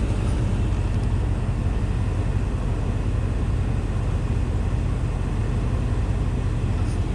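Truck engine running: a steady low drone with an even hiss above it.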